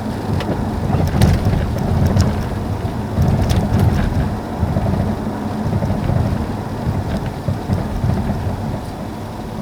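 Mercedes-Benz W212 E-Class driving over a rough surface, with a heavy low rumble and irregular sharp knocks and clatter, most of them in the first few seconds. The rattle comes from a defective shock absorber.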